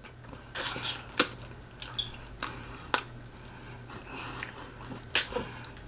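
A person eating close to the microphone: chewing and lip smacks heard as an irregular series of sharp clicks, over a faint low steady hum.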